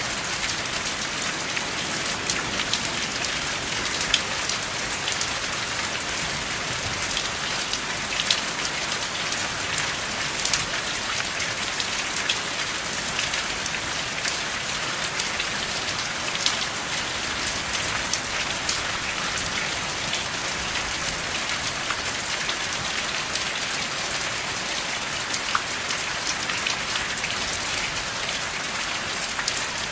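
Steady rain falling, an even hiss with many single drops ticking sharply through it.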